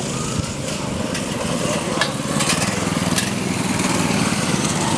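Small 6.5 hp single-cylinder mini bike engines running hard on a dirt race track, their buzz growing a little louder toward the end, with a few sharp clicks about two to three seconds in.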